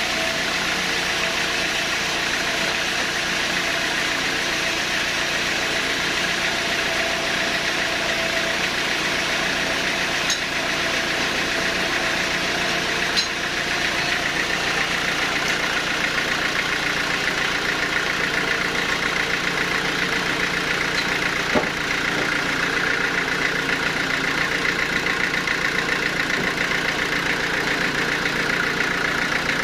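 Sawmill machinery running steadily, with a few short sharp knocks about ten, thirteen and twenty-two seconds in.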